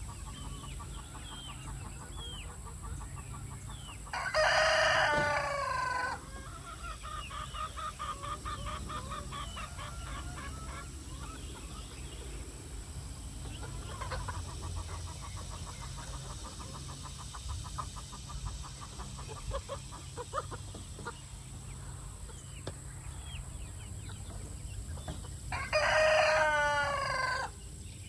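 Chickens clucking and trilling, with a rooster crowing loudly twice, about four seconds in and again near the end, each crow lasting about two seconds.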